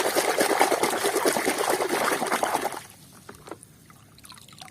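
Water trickling and splashing as a muddy toy is rinsed clean. It stops about three seconds in, leaving a few faint knocks.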